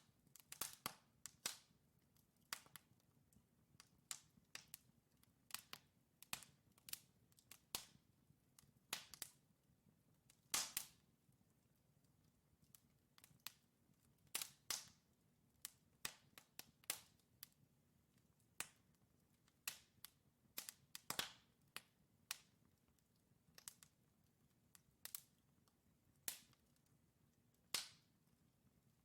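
Wood fire burning in a fireplace: logs crackling with sharp, irregular pops, a few every second or two, over a faint low hiss of flame.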